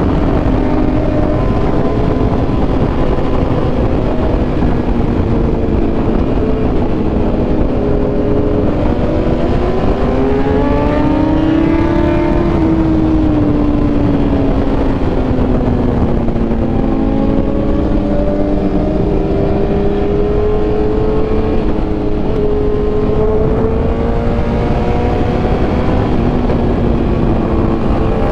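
Superbike engine running at speed, its pitch climbing to a peak about ten to twelve seconds in and then easing back, under heavy wind rush on the camera microphone.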